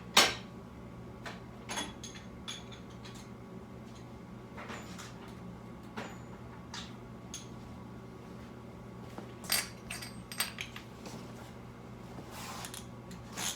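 Metal hand tools clinking and knocking on a 1982 Suzuki GS1100's engine while its spark plugs are taken out. The knocks are scattered, the loudest right at the start and a cluster about ten seconds in, over a low steady hum.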